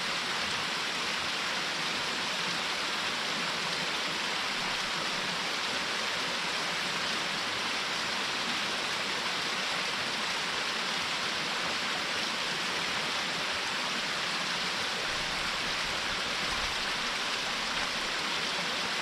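Small waterfall splashing and rushing steadily: an even hiss of falling water.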